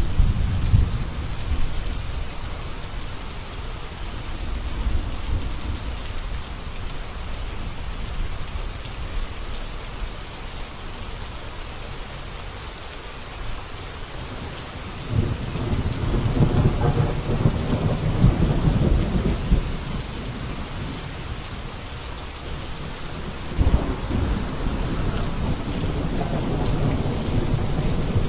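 Steady heavy rain falling, with rolls of thunder rumbling through it: one at the start, a longer one from about halfway that lasts several seconds, and another beginning near the end.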